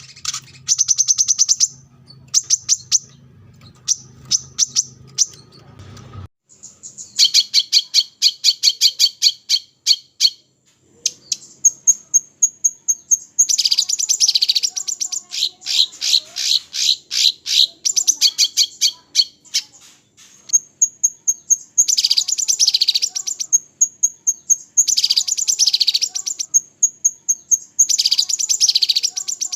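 Small songbirds singing in fast rattling trills of sharp repeated notes, in bursts from about a second to several seconds long, with thin high whistled notes between them.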